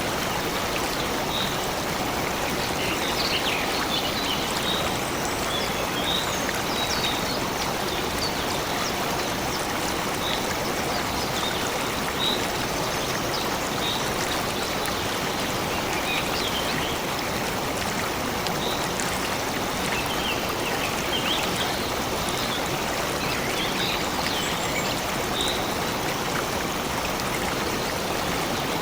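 A stream of water running steadily, with short, high bird chirps now and then over it.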